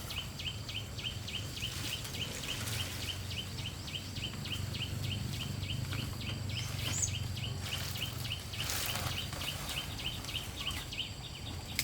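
A steady run of short, high chirps, about four a second, from a creature calling outdoors, with two brief rustling swishes, one a couple of seconds in and one near the end.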